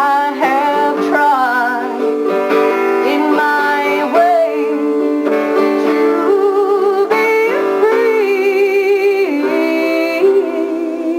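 A woman singing a slow melody in long held notes with vibrato, accompanied by plucked guitar.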